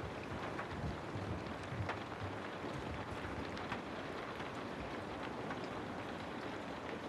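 Steady rain: an even hiss with scattered sharp drip ticks and soft low thuds.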